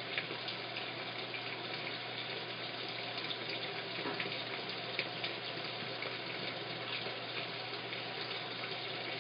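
Washing machine filling: water rushing steadily into the drum through the inlet, with small splashes and ticks scattered through.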